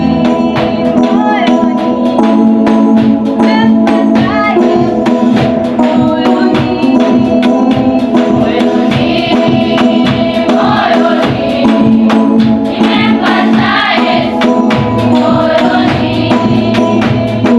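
A church youth choir singing a gospel song over held keyboard chords and a steady beat.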